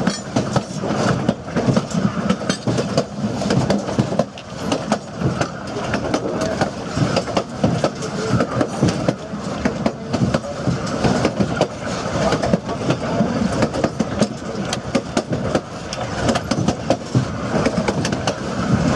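Narrow-gauge passenger train car rolling along the track: continuous wheel-and-rail noise with many irregular clicks and rattles as the wheels run over rail joints.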